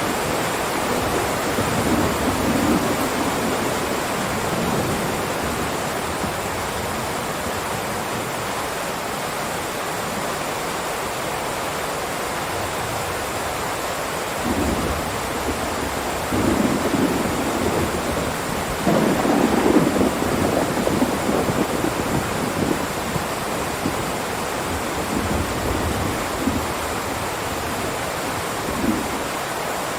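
Heavy rain pouring steadily, with low rolling rumbles that swell and fade several times, the strongest a little past the middle.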